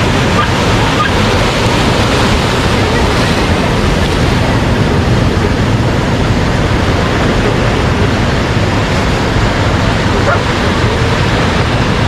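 Ocean surf washing steadily onto the beach, an even, unbroken rush of breaking waves.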